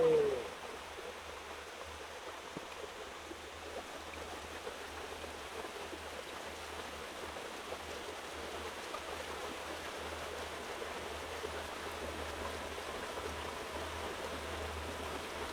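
Steady rush of a flowing forest stream, growing slightly louder toward the end.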